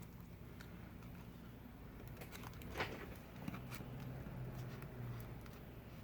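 Faint handling noises: a few light clicks and rustles of fingers working the screen's flex-cable connectors on an iPad Pro, over a low steady hum.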